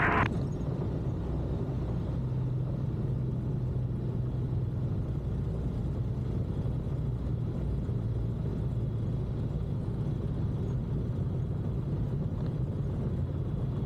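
Steady low drone of a light single-engine airplane's engine and propeller in flight, heard from inside the cockpit.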